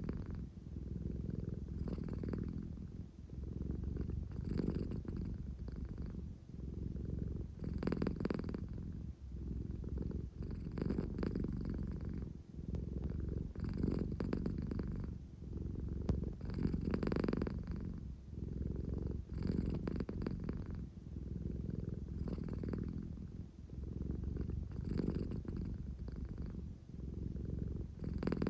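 American Shorthair cat purring steadily, a low rumble that swells and eases about every three seconds with each breath. It is the purr of a sleepy cat wanting affection.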